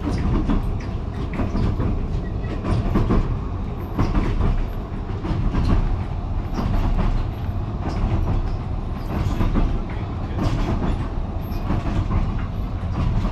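Steam train running along the track, heard from inside a passenger carriage: a steady low rumble with frequent clatter of the wheels over the rails.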